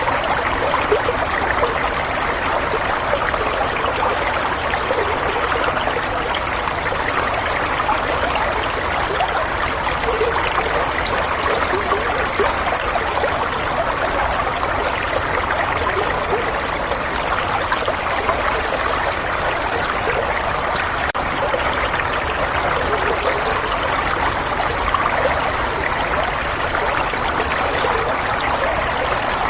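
Running water flowing and trickling steadily, an even rushing noise that does not change.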